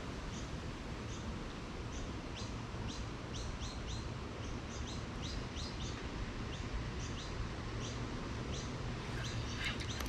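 A small bird calling over and over with short, high chirps that slide downward, at times in quick runs of two or three, over a steady low background noise.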